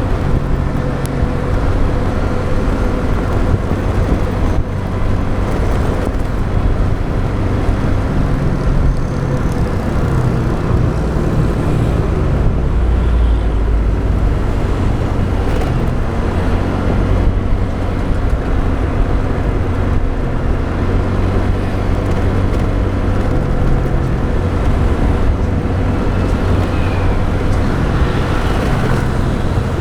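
Motorbike riding in traffic: the engine runs steadily under way, with road and wind rumble and other vehicles around it.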